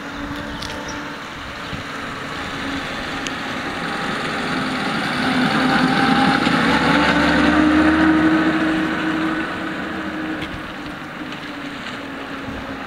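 A 1938 Mercedes-Benz 230 (W143), with its straight-six engine, driving past. The engine grows louder as the car approaches, is loudest about seven to eight seconds in, then fades with a slightly lower pitch as the car drives away.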